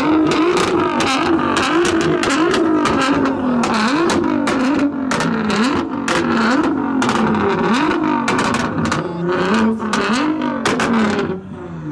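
Car engine revved in repeated blips, its pitch climbing and falling about once a second, with many sharp exhaust pops and crackles in between. It quietens just at the end.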